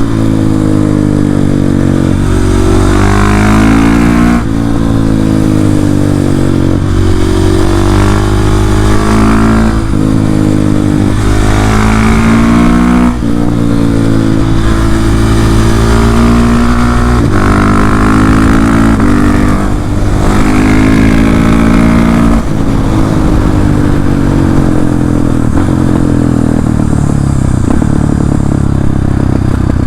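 KTM 690 SMC R's single-cylinder engine through an Arrow exhaust with the dB-eater baffle removed, revving up hard and dropping back at each upshift, over and over, then settling lower and easing off near the end.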